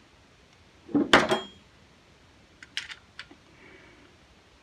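Small metal gun parts and tools being handled on a bench: a cluster of knocks with a short metallic ring about a second in, then a few light clicks around three seconds in, while the derringer's hand grip is being refitted.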